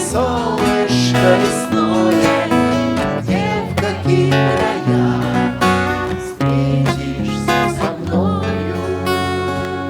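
Music: strummed acoustic guitar chords with a melody line over them.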